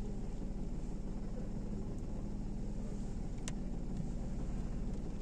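Car engine running steadily, a low, even hum. There is one sharp click about three and a half seconds in.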